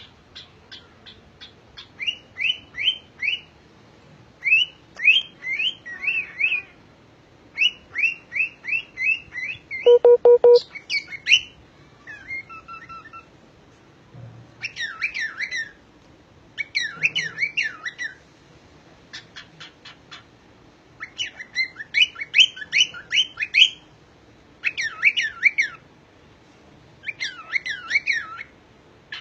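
Cockatiel chirping and whistling in phrases of quick, rising notes, repeated in short bursts separated by pauses. About ten seconds in there is a brief, loud, lower, steady tone.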